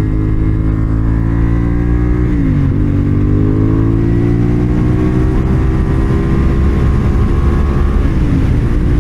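CFMoto 450SR's parallel-twin engine pulling under acceleration. Its pitch drops quickly at a gear change about two and a half seconds in, climbs steadily for several seconds, then drops again at a second gear change near the end.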